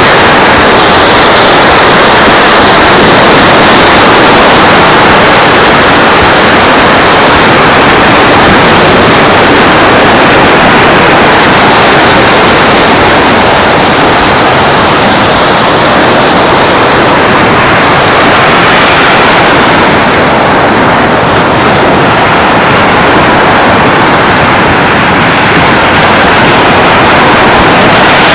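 Steady, loud rushing noise of surf on the shore mixed with wind blowing across the microphone.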